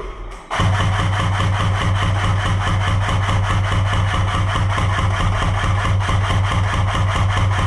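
A machine running steadily, with a low hum and a fast, even pulse. It starts abruptly about half a second in.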